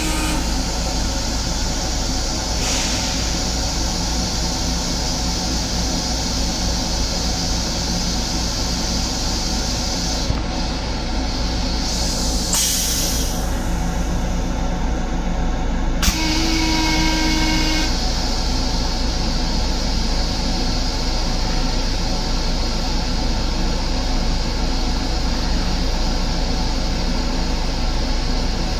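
Long Island Rail Road M7 electric railcar running, a steady rumble and hiss heard from inside its restroom. A click about sixteen seconds in is followed by a short steady tone.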